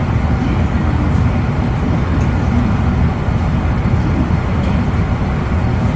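Steady running noise heard inside a JR East E259 series Narita Express motor car (MoHa E259): a loud low rumble of wheels on rail and the car's drive equipment at speed.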